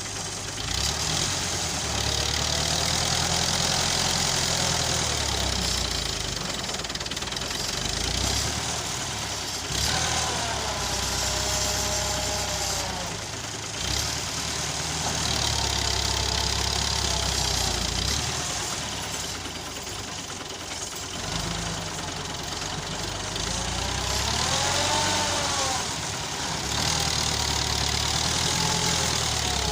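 Massey Ferguson 265 tractor's diesel engine running under load while pulling a heavily loaded trolley, its note swelling and easing every several seconds.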